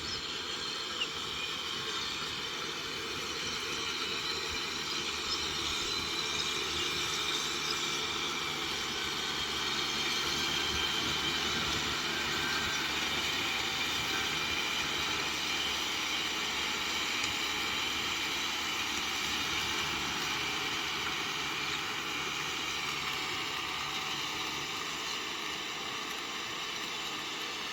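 Kubota M6040SU diesel tractor running under load, driving a rotavator through the soil: a steady engine and machinery drone with a whine, growing a little louder in the middle and easing off toward the end.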